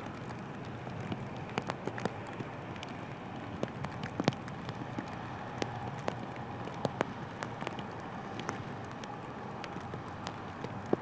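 Raindrops tapping irregularly on a rain cover over the camera, sharp scattered ticks over a steady background hum.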